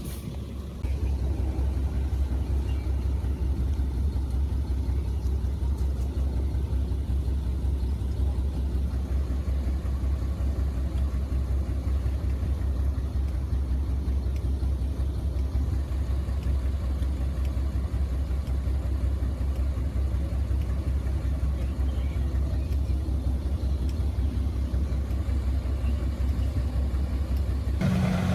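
Heavy diesel engine of earthmoving machinery running steadily at low revs, a constant low drone.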